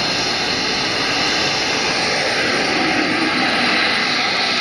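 Radio-control model jet's turbine engine running steadily before takeoff: a loud, even rushing hiss with no change in pitch.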